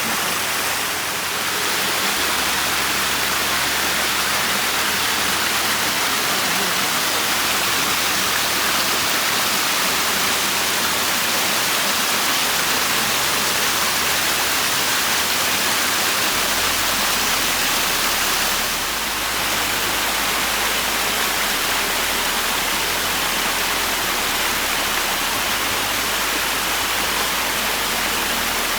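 Steady rush of falling water in a creek, loud and unbroken, with two brief dips.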